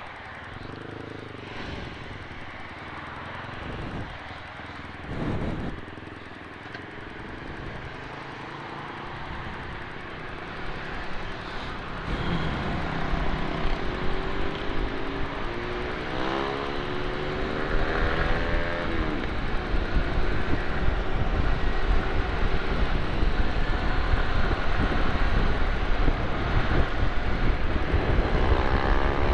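Yamaha R15 V3's single-cylinder engine pulling away and accelerating through the gears, its pitch climbing again and again, with road and wind noise building as speed rises. The first ten seconds or so are quieter, with a few brief revs.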